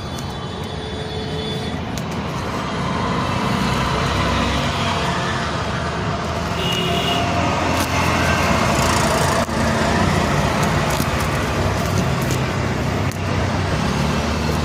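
Motor vehicle engine running with road traffic noise, swelling a few seconds in, with a couple of short clicks.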